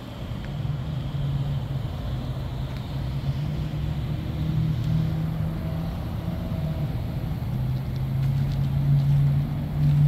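2005 Jaguar XJ8L's 4.2-litre V8 idling steadily, a low even hum, with a few faint clicks over it.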